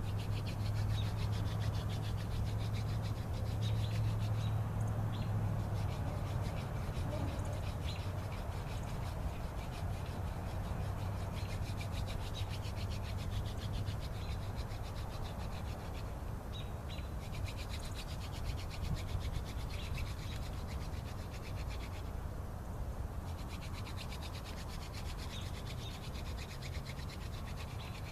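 Mullein-stalk spindle of a hand drill spun back and forth between the palms, grinding into a wooden fireboard to build up dust for an ember: a continuous scratchy rubbing with a few brief breaks. A low steady hum runs beneath it for the first several seconds.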